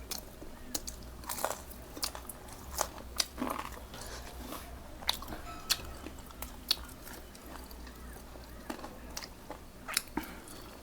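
A person eating: chewing and biting food, with irregular sharp clicks and small crunches.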